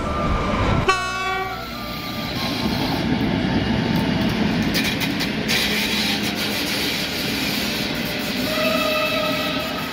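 Passenger train hauled by an electric locomotive rolling along a station platform: a steady rumble and wheel noise from the coaches going by. A steady high-pitched tone sounds briefly near the end.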